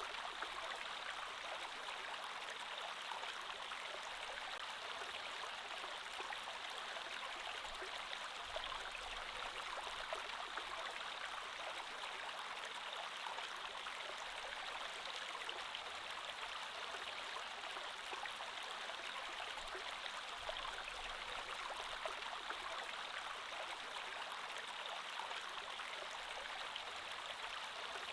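Creek water flowing steadily over stones, an even rushing with fine bubbling.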